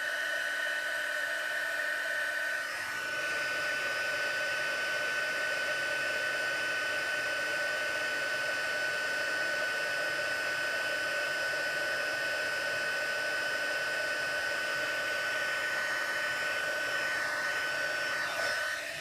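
Embossing heat tool blowing hot air steadily, a fan hiss with a high steady whine, melting white embossing powder; it switches off near the end.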